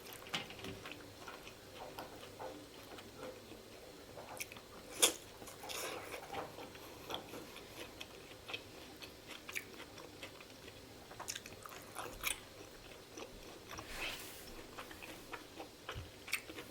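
Close-up chewing and biting of pork momo dumplings: wet mouth sounds with scattered small smacks and clicks, and one louder click about five seconds in.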